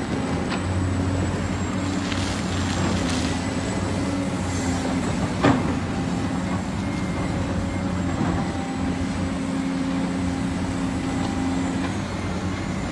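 Heavy diesel construction machinery running steadily, with a single sharp metal clank about five and a half seconds in.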